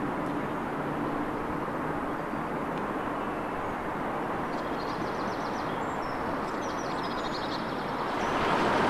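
Steady rumble of a train crossing the steel Forth Bridge, with small birds chirping in quick runs midway; the noise swells louder near the end.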